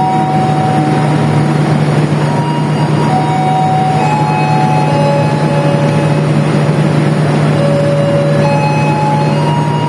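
Diesel-hauled passenger train at the platform: a steady low engine drone over loud running noise, with short high squeals at changing pitches coming and going.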